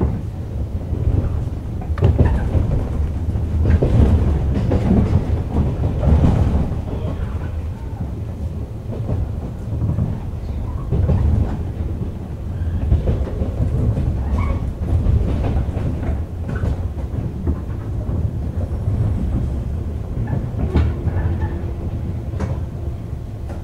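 JR East 101 series electric train running, with wheels clattering over rail joints above a steady low rumble.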